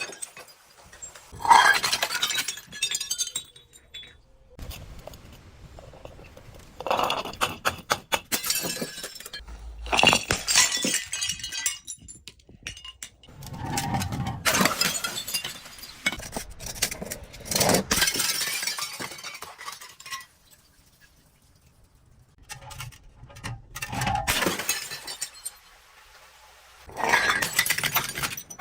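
Glass shattering and crunching under crushing, in several separate bursts of sharp clinks and cracks with quieter gaps between them. The loudest burst comes about a second and a half in.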